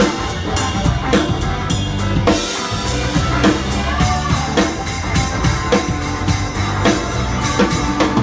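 Live rock band playing, with the drum kit loud and close: a steady kick-and-snare beat over bass notes. The bass drops out briefly about two and a half seconds in.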